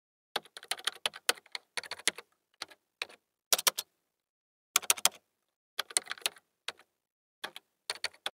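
Typing keystrokes in quick runs of clicks, in short bursts with pauses between and a longer pause about four seconds in.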